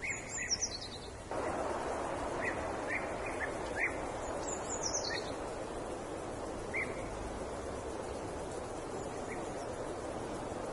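Small bird chirping: two quick high trills that slide downward, one at the start and one about four and a half seconds in, with scattered short chirps between, over a steady background hiss that starts about a second in.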